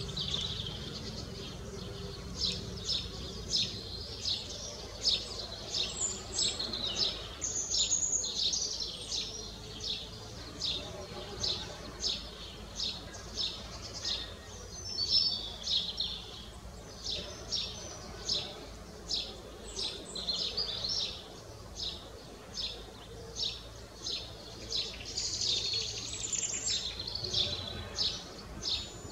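Songbirds singing in the trees: a quick, regular run of short high chirps, about two or three a second, with other birds' song phrases over it, above a low steady background rumble.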